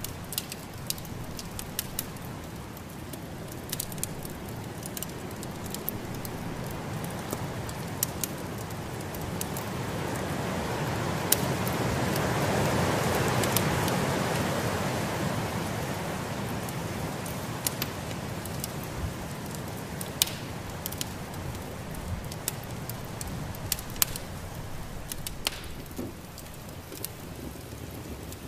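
Wood fire in a fireplace crackling with scattered sharp pops, over the steady rush of snowstorm wind that swells into a stronger gust about halfway through and then eases.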